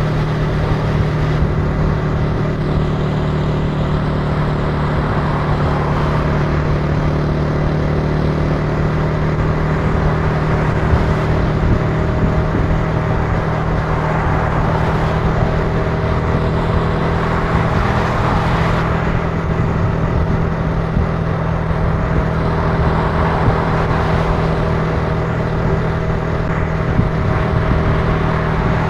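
Italika TC300 motorcycle engine running at a steady speed while riding, heard from on board. Its note stays level throughout, under road and traffic noise that swells and fades every few seconds.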